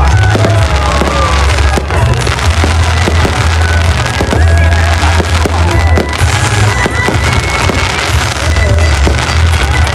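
Fireworks going off in a dense run of cracks and pops, with loud music and a heavy bass underneath.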